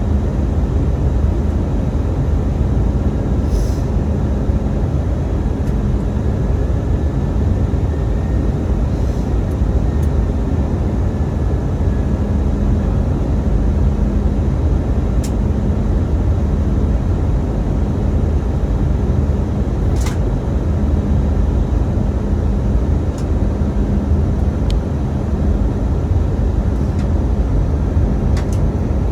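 Steady drone of an Airbus A319's engines and airflow, with a low hum that comes and goes and a few faint clicks.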